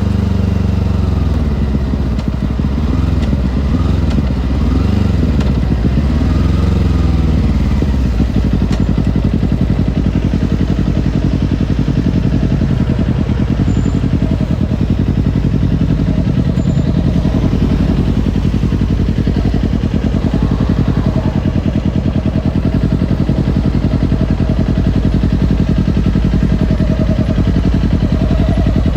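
Kawasaki Ninja sport bike's parallel-twin engine, its pitch rising and falling several times over the first seven seconds, then settling into a steady, even run.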